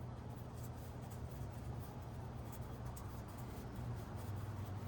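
Faint scratching and light clicking of hands handling small screws and plastic parts, over a steady low hum.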